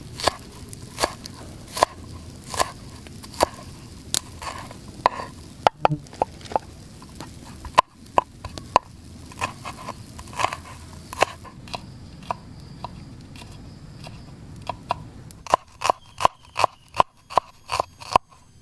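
Knife cutting through onions and spring onion: separate crunchy cuts about one or two a second, quickening into a fast run of chops near the end.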